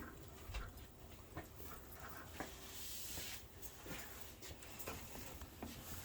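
Faint budgerigar chatter: scattered short chirps among small clicks and taps.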